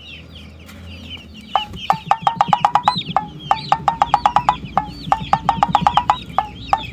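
Chickens clucking in quick runs of short notes, several bursts in a row starting about one and a half seconds in, with high chick peeps over them.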